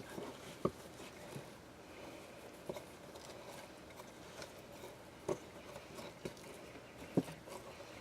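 Quiet handling of craft materials on a tabletop: scattered small taps and light knocks as the glued stick and ribbon are moved and pressed into place, several spread irregularly over a faint rustle.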